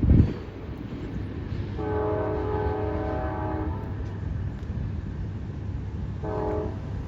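CSX diesel locomotive's air horn sounding one long blast of about two seconds, then a short blast near the end, over the steady low rumble of the train.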